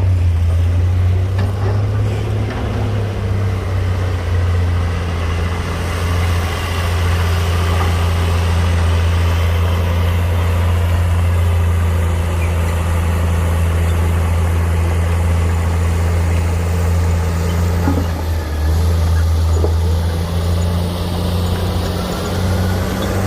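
Heavy diesel engine of earthmoving machinery running at a steady low pitch, with a brief dip about eighteen seconds in.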